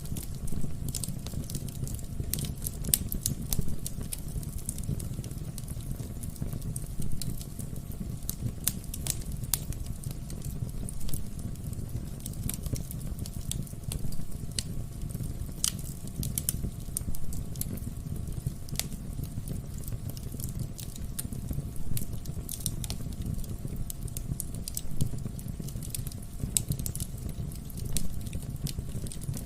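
Wood fire burning in a fireplace: irregular sharp crackles and pops from the burning logs, some louder than others, over a steady low rush of the flames.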